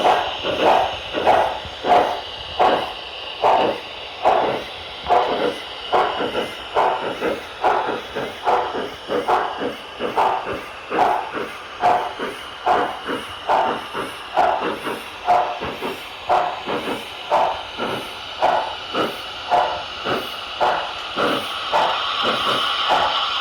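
HO scale model steam locomotive's digital sound decoder playing a steady exhaust chuff, about one and a half beats a second, over a continuous steam hiss through its onboard speaker. Near the end a steadier hiss swells in.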